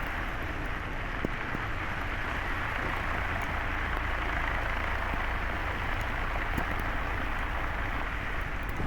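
Steady road and tyre noise of a Tesla Model S driving on a snowy, slushy road, with no engine sound.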